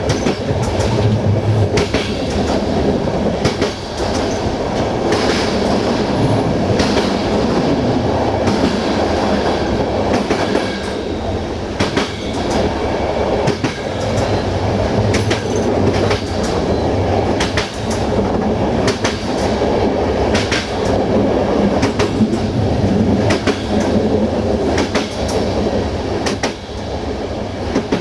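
Passenger train carriage rolling along the track: a steady rumble from the wheels and running gear, with sharp clacks every second or few as the wheels cross rail joints.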